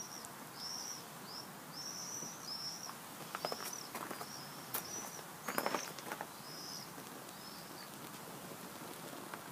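A bird chirping repeatedly, a dozen or so short arched chirps that thin out after about seven seconds. A few sharp clicks and crackles stand out around the middle.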